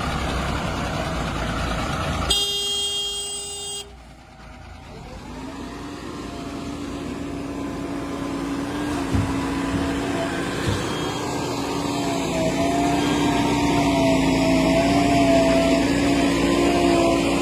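Heavy diesel machinery running, with a vehicle horn blast lasting about a second and a half just over two seconds in. Then the sound drops away suddenly, and an engine's tone wavers slightly as it grows steadily louder.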